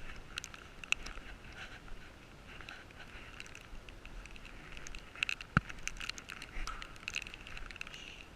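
Footsteps crunching and scuffing over loose gravel and debris, with scattered small clicks and one sharp knock about five and a half seconds in.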